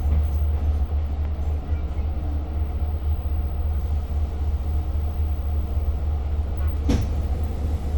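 Steady low rumble and hum inside a Long Island Rail Road diesel train's passenger car, with one sharp click about seven seconds in.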